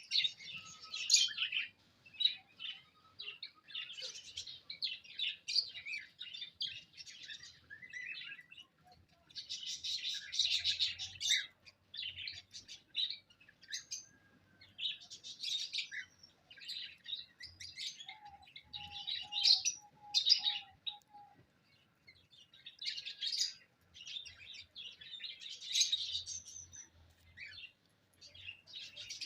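Small pet birds chirping and chattering in busy bursts with brief pauses, with a short run of lower repeated notes about two-thirds of the way through.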